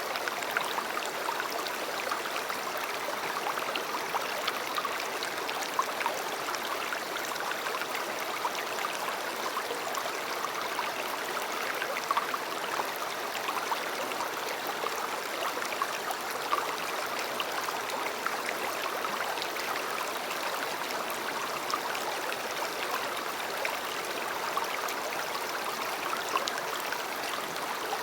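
River water flowing steadily over stones: an even rushing sound peppered with many small splashes and drips.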